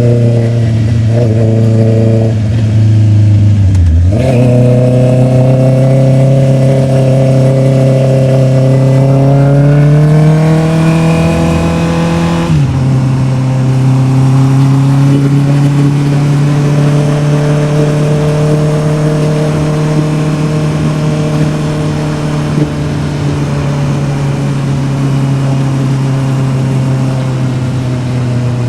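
Honda CB650R's inline-four engine running under way. Its note dips sharply and recovers about four seconds in, climbs slowly, drops suddenly about twelve seconds in, then holds a steady cruising note that wavers gently.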